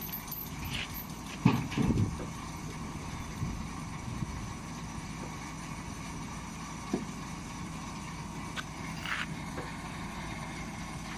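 Engine running steadily in the background, with a few knocks and clanks, the loudest a pair about one and a half to two seconds in.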